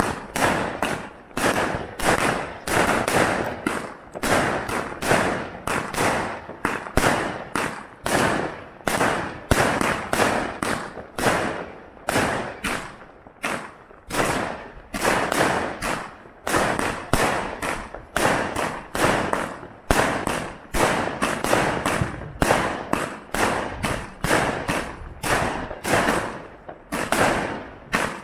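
144-shot compound firework cake firing in rapid succession: a steady run of launch thumps and bursts, about two to three shots a second.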